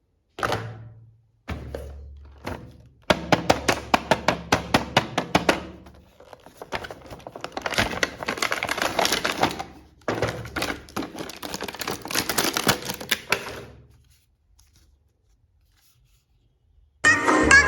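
Handling of plastic action figures and their packaging: scattered clicks, then a quick run of about five clicks a second, then denser clicking and scraping. Electronic dance music comes in near the end.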